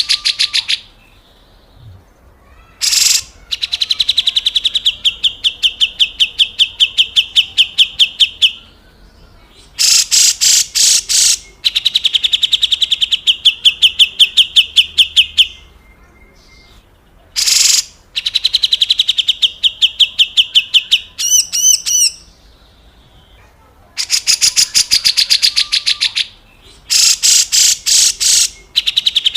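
Grey-cheeked bulbul (cucak jenggot) giving its harsh rattling scold call, the 'besetan kasar': loud, rapid runs of rasping notes, each lasting a few seconds, repeated after short pauses. One brief warbled phrase comes about two-thirds of the way through.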